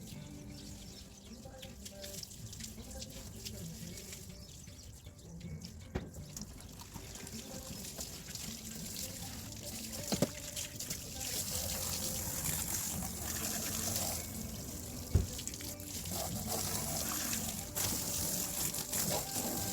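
Water running and splashing on a car being washed, getting louder about ten seconds in, with a few sharp knocks, the loudest about fifteen seconds in.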